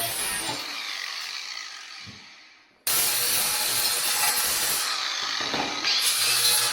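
Tool and wood noises of cabinet assembly, a rasping hiss like sawing or rubbing on wood. It fades out and cuts back in suddenly and louder about three seconds in.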